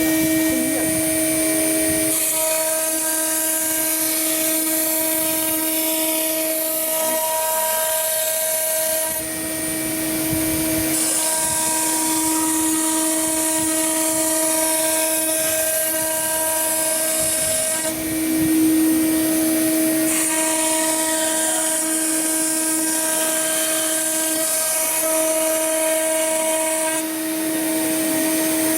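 CNC router spindle running with a steady high-pitched whine, while a higher hiss switches on and off in three stretches of about seven seconds each, with gaps of about two seconds.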